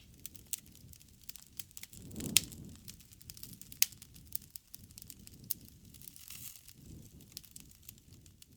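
Wood campfire crackling, with frequent sharp pops and snaps over a low rumble of burning. It swells louder about two seconds in, and there is a strong pop near four seconds.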